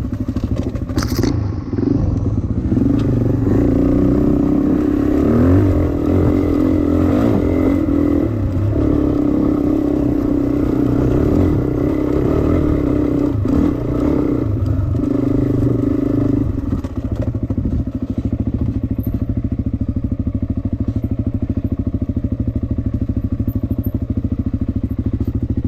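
Dirt bike engine running under changing throttle, its pitch rising and falling as it is ridden, then settling into a steadier, lower running about two-thirds of the way through.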